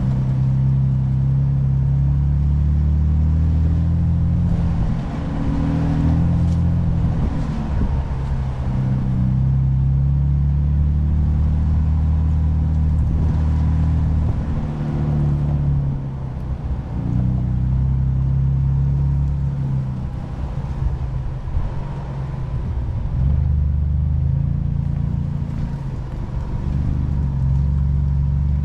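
Ford Bronco engine running under light throttle while driving an off-road trail, its low note rising and easing off in waves.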